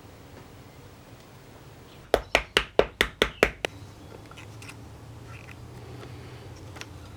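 Seven sharp knocks in quick succession, about five a second, each ringing briefly, over a low steady background hum.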